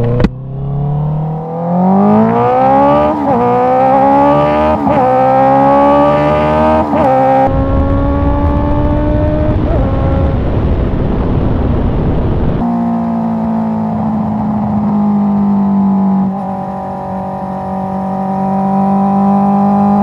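Honda CBR 650R inline-four engine through an Akrapovic exhaust, accelerating hard with the revs climbing and dropping at about three upshifts in the first seven seconds, then cruising at steady revs. A short sharp click right at the start.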